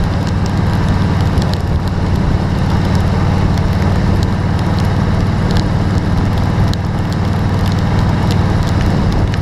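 Hard rain falling on a vehicle: a dense crackle with scattered sharper drop hits over a steady low rumble.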